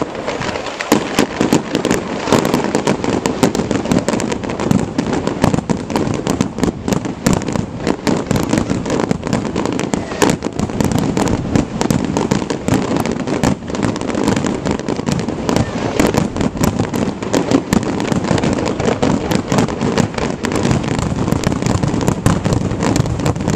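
Display fireworks going off in a dense, continuous volley of overlapping bangs and crackles, with no pause.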